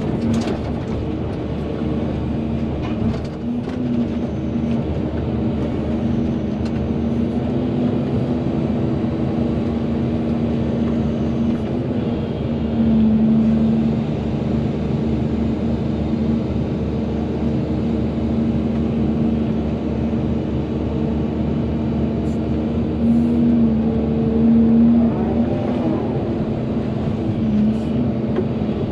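Volvo EC220DL excavator's diesel engine running steadily while digging. It grows louder for a second or two about a third of the way in and again near the end, as it takes more load, with a couple of knocks in the first few seconds.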